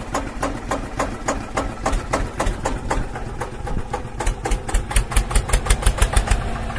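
Miniature engine of a model water pump running with an even, knocking beat of a few strokes a second, quickening slightly in the second half.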